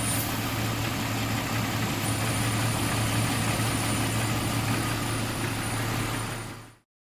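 Jeep Cherokee 4.0 straight-six idling with a thin, very high-pitched whistle from air being sucked through a cracked vacuum line. The whistle stops a fraction of a second in as the leak is covered, then comes back about two seconds in as it is uncovered. The sound cuts off just before the end.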